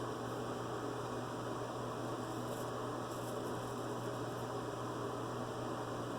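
Steady mains hum and hiss, with faint scratchy strokes of a straight razor across stubble about two to three seconds in.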